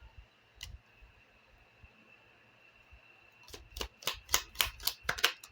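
Lenormand cards being handled, shuffled and drawn: a quick run of a dozen or so short, sharp card clicks and slaps starting about three and a half seconds in.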